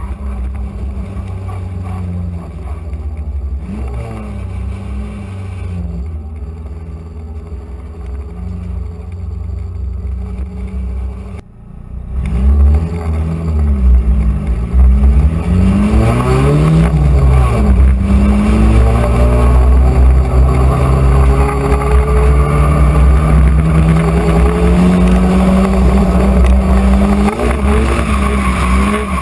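Nissan 240SX's turbocharged SR20DET four-cylinder heard from inside the cabin, running at low revs at first. After a brief dip about 11 seconds in it gets much louder, revving up and down several times in quick succession, then climbing steadily under throttle.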